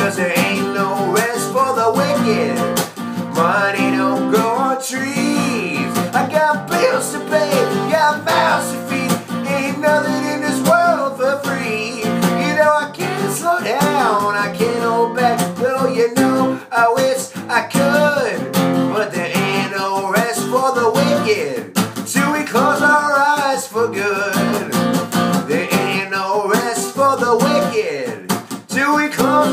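Acoustic guitar playing an instrumental passage: strummed chords with lead notes that bend in pitch.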